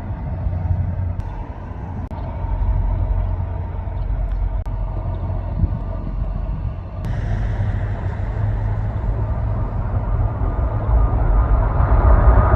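Low, steady rumble of a jet airliner's engines, growing louder toward the end.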